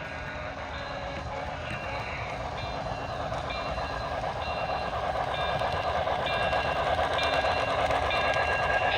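HO scale model train running on a layout, led by a PRR T1 steam locomotive model with a sound decoder. Rolling and hissing grows steadily louder as the train approaches. A short high tone repeats about once a second.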